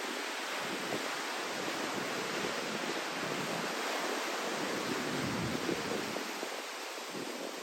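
Rough surf breaking with strong wind rushing over the microphone, a steady noise with uneven low gusts of wind rumble, stirred up by a typhoon.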